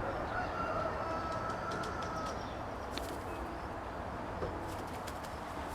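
Racing pigeons cooing over steady background noise, with a few faint clicks about halfway through.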